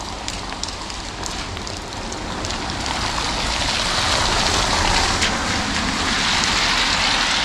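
Steady rain with scattered sharp drop ticks, and the hiss of a car's tyres on the wet road swelling up from about two seconds in and staying loud.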